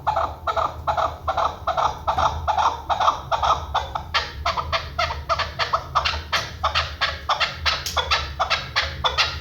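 Chukar partridge calling: a long run of quick, repeated clucking notes, about three a second, which speeds up to about four a second and grows brighter about four seconds in.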